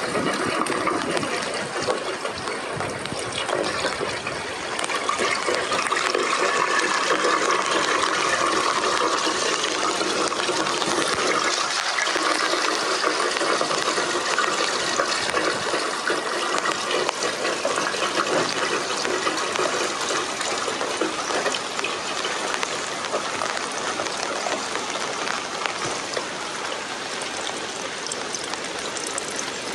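Water rushing steadily, a continuous even splashing with no pauses.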